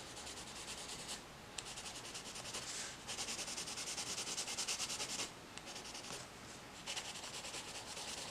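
Colored pencil scratching across paper in quick back-and-forth shading strokes, in several short runs with brief pauses.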